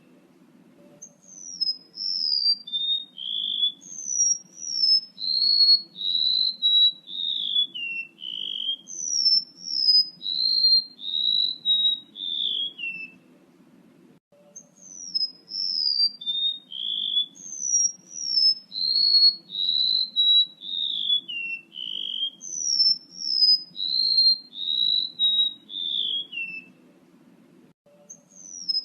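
Recorded song of a male golden-bellied gerygone (remetuk laut), played as a bird-lure call: phrases of thin, high whistles that step down in pitch, repeated over and over. Short pauses come at the start, midway and near the end, over a faint low hum.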